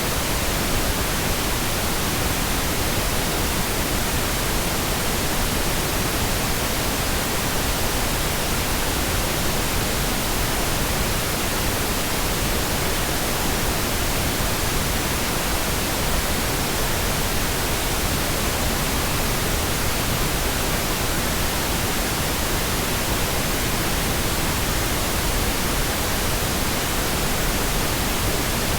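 Synthetic pink noise: a steady, even hiss spread over the whole range of pitch, with no change or event.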